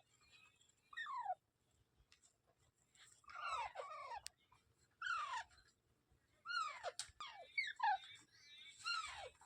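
Parrots calling: a series of about six short whistled calls, each sliding quickly down in pitch, with brief gaps between them and two calls overlapping once near the middle.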